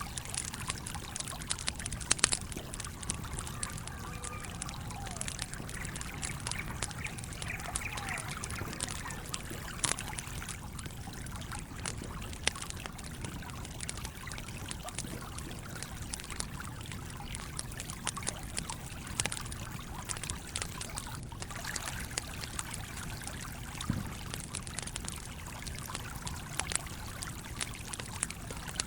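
Stream water flowing and trickling steadily, with a campfire crackling over it in scattered sharp pops, a few louder ones standing out.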